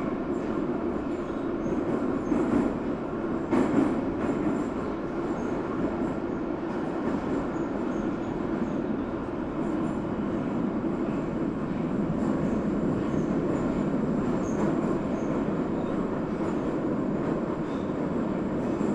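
New York City subway train running along the track, a steady rumble of wheels and car, with two louder knocks from the rails a few seconds in.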